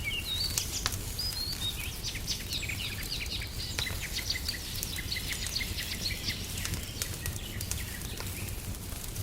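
Small birds chirping and twittering over the steady crackle and pop of a wood fire, with a low rumble underneath. The birdsong thins out after about six seconds while the crackling carries on.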